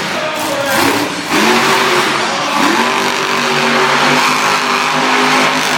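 Monster truck engine revving hard: its pitch climbs twice, then holds steady at high revs.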